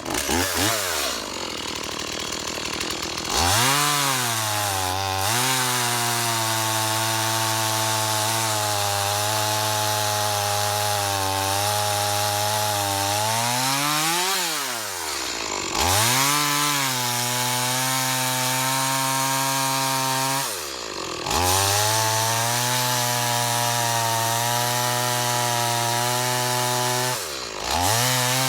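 Holzfforma G372XP two-stroke chainsaw revving up and held at a steady high speed while cutting through a log. Three times it drops back to idle and revs up again.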